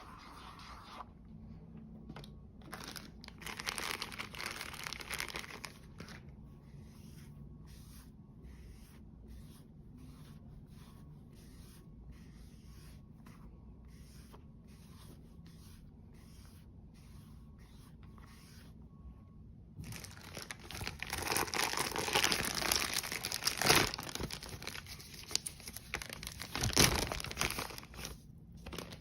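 Crinkling and tearing of packaging being handled close to the microphone, in two louder stretches: a short one a few seconds in and a longer one from about twenty seconds in, with a few sharper crackles.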